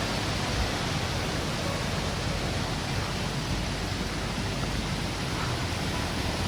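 Steady hiss of wind and rain on an exposed mountainside, an even noise that holds level without gusts or breaks.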